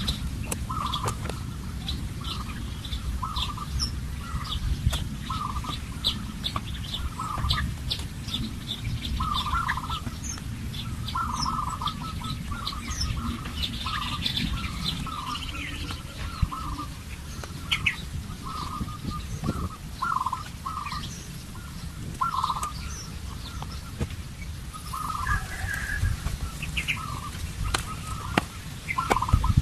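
Birds calling outdoors: a short call repeated roughly once a second, with scattered higher chirps, over a steady low rumble.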